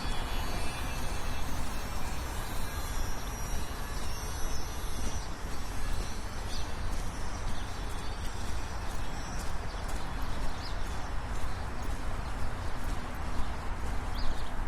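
Brisk walking footsteps on a city sidewalk, a run of regular steps over a steady low rumble of traffic.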